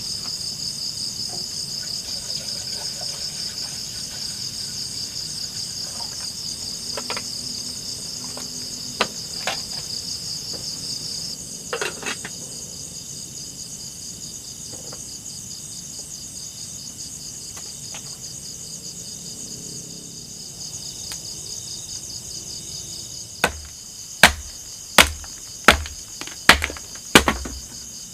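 Forest insects chirring in a steady, pulsing high-pitched chorus that is louder at first and then drops back. Near the end come six sharp knocks in quick succession, each less than a second apart.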